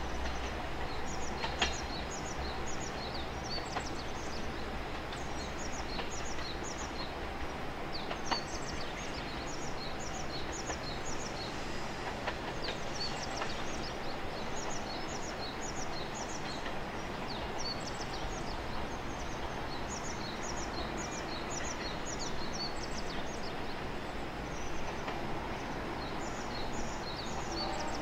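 A JR Shikoku 2000 series diesel railcar pulling away into the distance, its running noise fading to a low background hum. Over it a bird calls again and again in quick runs of four or five high chirps.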